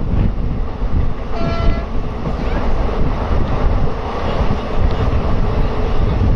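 Wind buffeting the microphone over the steady rumble of a moving passenger train, heard from the coach's open doorway. A brief high-pitched tone sounds about a second and a half in.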